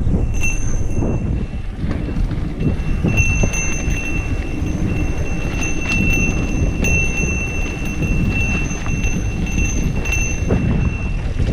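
Mountain bike rolling down a dirt trail: wind rumble on the microphone with tyre crunch and a run of small knocks and rattles from the bike over bumps. A thin, steady high-pitched whine sounds through most of it, dropping out in the first few seconds.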